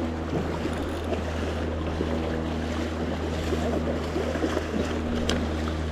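River water rushing steadily under a constant low hum, with a few faint clicks.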